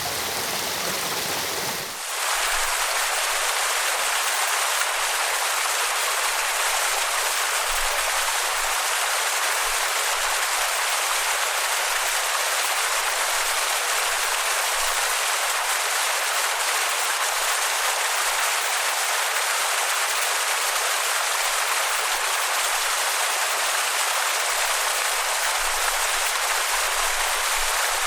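Steady rushing of falling water. About two seconds in, the sound switches abruptly to a thinner, hissing wash of water without the deep rumble, which then holds steady.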